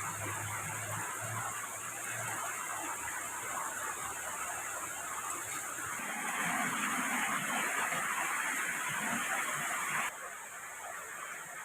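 Steady rushing water, a dense even hiss that swells about six seconds in and drops off abruptly near the end.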